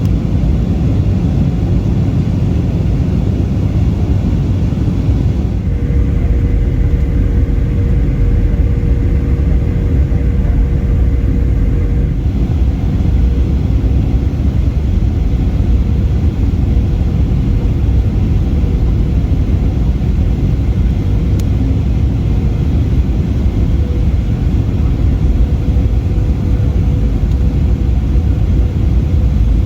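Steady low rumble of a Boeing 737's engines and airflow heard inside the cabin during the descent, with a faint steady hum that comes in about six seconds in.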